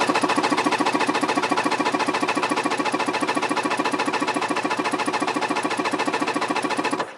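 Yamaha GP760 two-stroke twin being cranked by its electric starter for a compression test on the magneto-side cylinder, without firing: a steady, fast, even chugging that cuts off near the end. That cylinder builds 150 psi.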